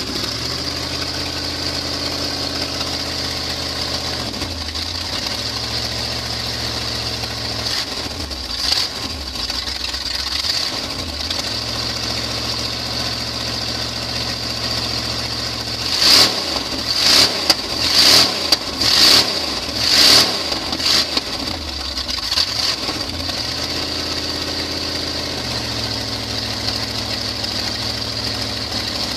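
A 1976 Chevrolet stepside pickup's engine running on open headers. It idles with a few small throttle blips, then gets five quick, sharp revs in a row about halfway through before dropping back to idle.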